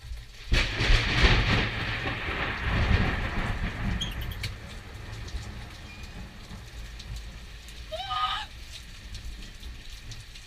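A thunderclap breaks about half a second in and rolls on as a deep rumble that fades over several seconds, over steady rain. A short rising cry, like a voice, sounds briefly near the end.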